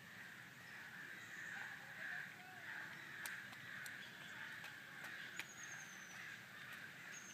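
A steady chorus of bird calls, with a couple of short high chirps in the second half.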